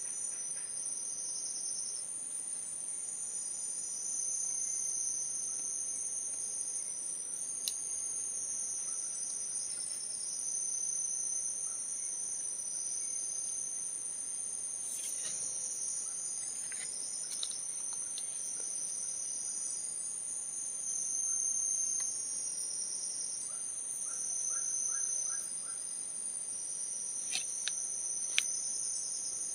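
Forest insects calling: one unbroken high-pitched shrill, with a second insect a little lower singing in pulsing phrases that come and go. A few faint clicks sound near the end.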